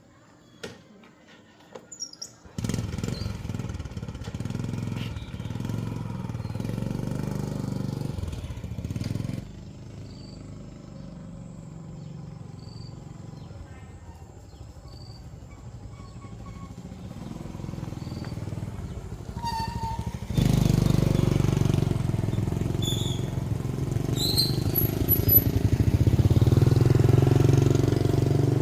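A motor vehicle engine running steadily, starting suddenly a couple of seconds in, dropping back at about a third of the way and growing louder again, with a sudden step up about two-thirds in.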